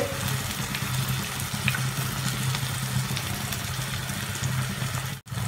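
Paneer and capsicum sizzling steadily in a nonstick kadai, with a steady low hum underneath. The sound drops out for a moment near the end.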